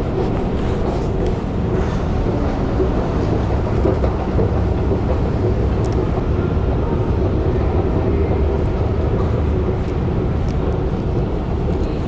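Steady low rumble of rush-hour road traffic.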